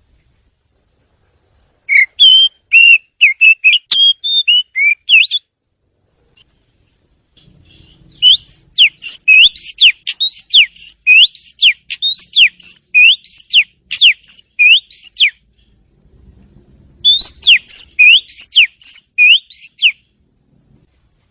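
Oriental magpie-robin (kacer) singing in three bursts of loud whistled notes with gaps between. The long middle burst is a run of quick rising whistles, about two a second.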